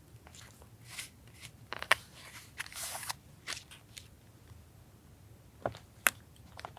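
Paper and stationery handled for collage journaling: rustling and crinkling paper with scattered sharp clicks and taps, the sharpest about two seconds in and again about six seconds in.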